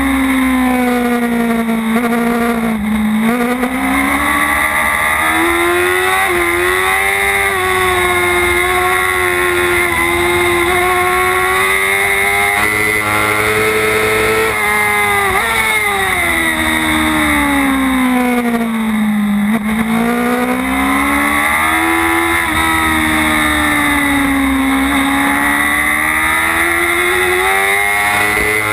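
Racing motorcycle engine heard from an onboard camera through a lap, its pitch climbing as it accelerates and falling away when it slows for corners, dropping deeply about three seconds in and again just past the middle before rising again, with wind rushing over the camera throughout.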